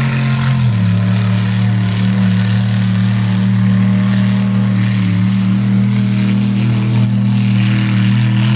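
A competition truck's engine at full throttle during a run: it shifts up about a second in, then holds steady high revs for several seconds before letting off at the very end.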